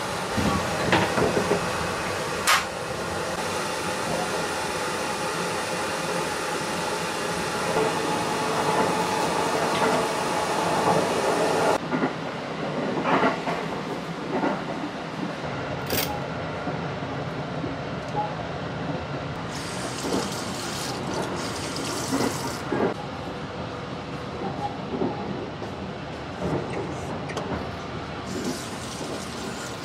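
Sleeper train running, heard from inside the carriage: a steady rumble and hiss with occasional sharp clicks and knocks.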